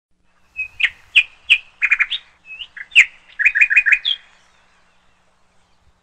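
A bird calling: a string of sharp, short chirps that sweep down in pitch, with a quick run of five or six notes about three and a half seconds in, stopping after about four seconds.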